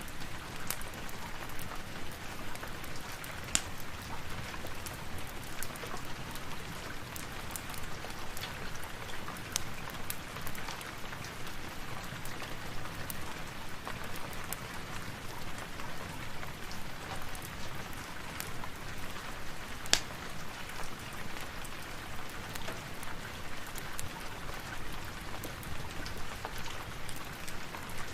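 Steady rain falling, with scattered sharp clicks over it; the two loudest come a few seconds in and about two-thirds of the way through.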